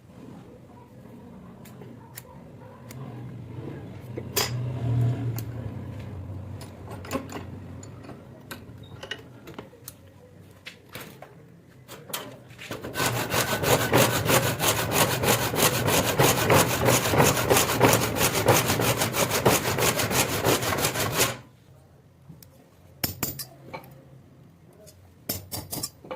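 Scattered light taps and scraping, then a run of rapid back-and-forth scraping strokes from a hand tool working the piece. The strokes last about eight seconds and stop suddenly, followed by a few sharp clinks near the end.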